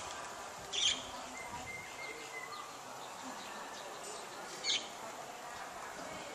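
Birds chirping, two short high calls about a second in and near the end, over a steady outdoor background hiss.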